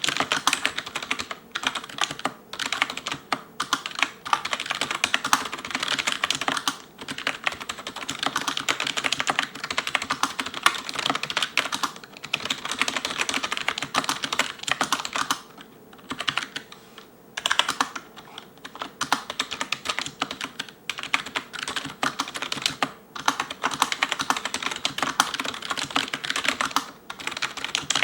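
Fast touch-typing on an ELECOM TK-FDM088TBK wireless membrane keyboard with cylindrical keycaps: a rapid, continuous clatter of keystrokes that pauses briefly about halfway through, with space and enter strokes among the letters.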